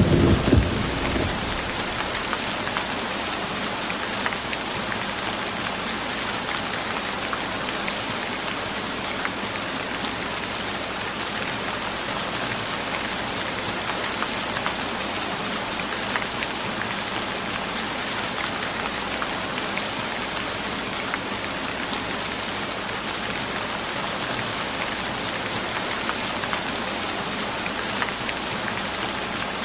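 Steady rain falling, an even hiss with scattered drop ticks. A low rumble fades out in the first second.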